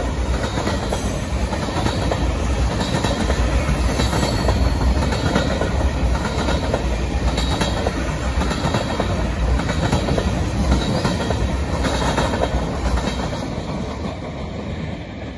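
Freight train of tank cars rolling past: a steady rumble of steel wheels on rail with rhythmic clickety-clack over the rail joints. The sound fades near the end as the last car goes by.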